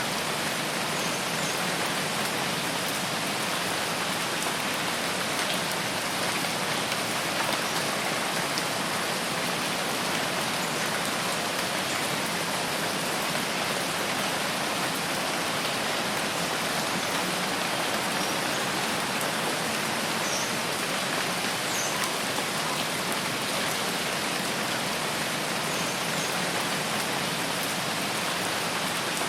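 Rain falling steadily, an even hiss of drops with no pauses, with a few faint, brief high chirps now and then.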